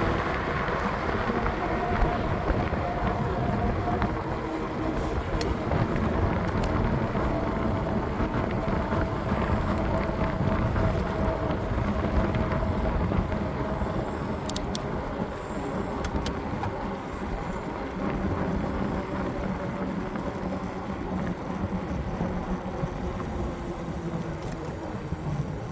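Wind buffeting the microphone over steady rolling road noise while riding, with a faint steady hum underneath and a few light clicks about halfway through.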